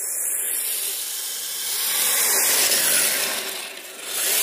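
Radio-controlled tracked snow vehicle driving through snow: the plastic tracks churn and hiss through the snow over the whine of its electric motor, swelling louder about two seconds in and again near the end.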